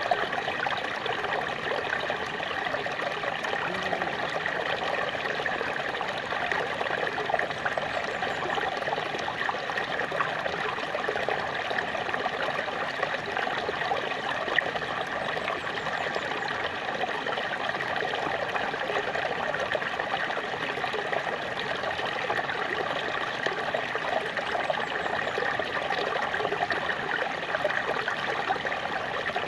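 Small waterfall splashing and trickling steadily, an even rush of falling water.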